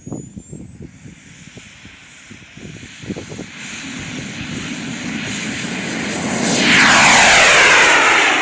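Radio-controlled model Eurofighter's afterburner-equipped turbojet spooling up with a high whistle rising in pitch. Its jet noise then builds steadily through the take-off and is loudest from about seven seconds in, as the jet passes close.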